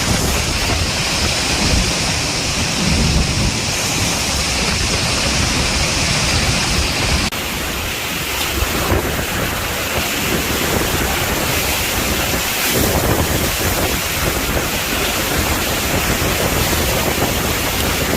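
Hurricane-force wind and rain, a loud, steady rush of noise with wind buffeting the microphone. The sound changes abruptly about seven seconds in.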